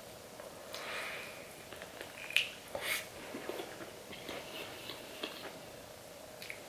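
Close-up chewing of a crispy fried chicken drumstick: soft, wet mouth sounds broken by small crunches and clicks, with one sharper crunch a little over two seconds in.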